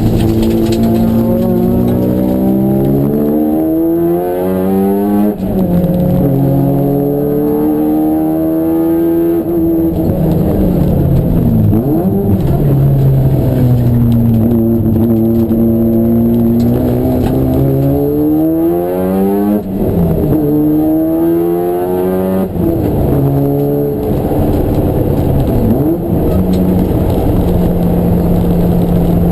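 Race car engine driven hard around a circuit. Its pitch climbs steadily under acceleration and drops sharply at gear changes several times, and it sinks back between the climbs as the car slows for corners, with no break in the sound.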